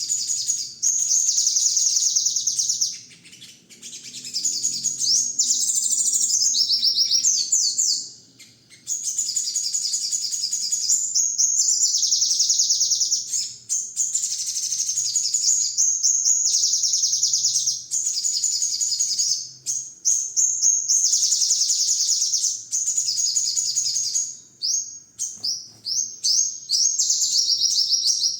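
A 'sogon' songbird sings long runs of rapid, high-pitched chattering trills almost without pause, breaking off briefly about three and eight seconds in. This is a masteran song recording, played to caged songbirds to set off their own fast 'perepet' singing.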